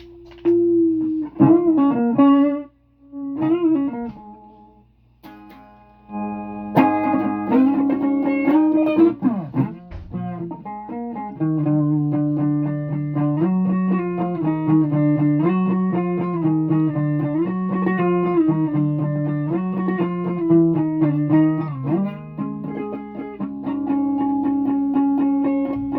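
Instrumental music on a plucked string instrument: a few bent, wavering notes, a short break, then sustained notes and chords played on with slow pitch wobbles.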